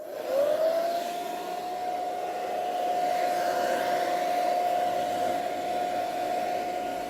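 Hooded hair dryer switched on at its lowest setting: the motor's whine rises quickly as it spins up, then holds a steady hum over the rush of blowing air.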